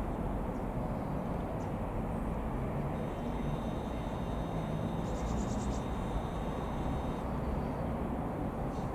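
Steady low drone of a distant Ikarus C-42 microlight's four-cylinder Rotax piston engine, heard through outdoor ambience. A faint high tone with a short trill comes in for a few seconds in the middle.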